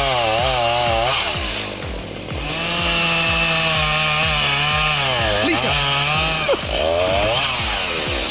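Chainsaw with a 20-inch bar cutting into a tree's root ball, the engine note rising and falling as the chain loads up in the cut and revs back. It eases off briefly about two seconds in and dips again near the end.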